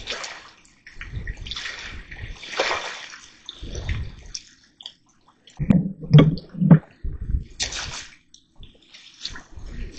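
Water sloshing and splashing in irregular bursts, with a few dull knocks a little past the middle.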